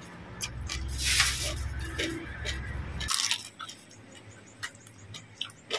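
Close-up wet chewing and squishing of a mouthful of som tam with crunchy jellyfish, with two louder noisy bursts about one and three seconds in. A low hum stops about three seconds in, and scattered soft clicks follow.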